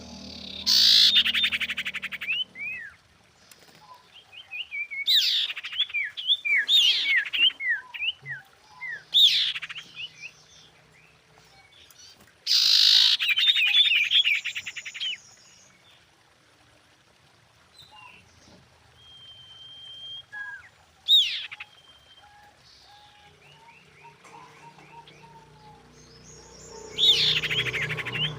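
Common iora calling: repeated bursts of fast buzzy trills mixed with runs of short falling whistled notes, and a thin held whistle about two-thirds of the way through.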